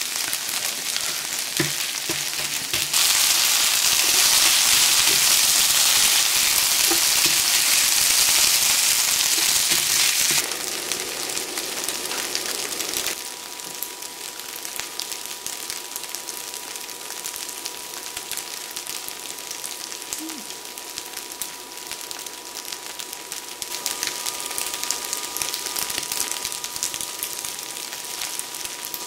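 Pork belly and kimchi fried rice sizzling on the hot plate of an electric grill. The sizzle is louder over roughly the first ten seconds, then quieter, and a faint steady whine joins about halfway through.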